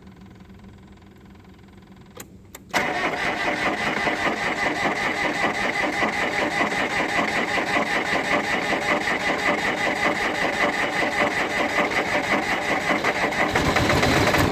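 A couple of faint clicks, then about three seconds in the starter begins cranking a Ford LGT-14D diesel garden tractor engine on a cold start: a steady, rapidly pulsing grind that goes on for about eleven seconds as the cold engine tries to fire, changing slightly near the end.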